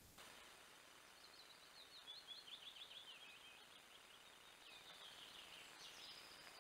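Faint birdsong over a steady microphone hiss: a quick run of chirping notes that falls in pitch, then a second, shorter falling phrase near the end.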